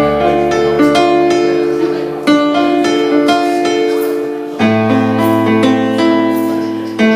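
Instrumental piano intro: a chord struck about every two seconds and left to fade, with a simple melody moving over it.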